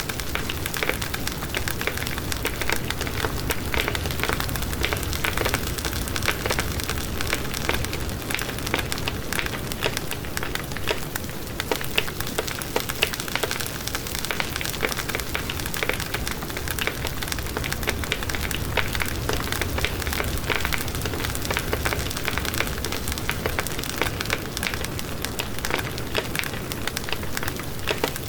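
Wood fire crackling in a fireplace: a steady hiss of burning with dense, irregular pops and snaps throughout.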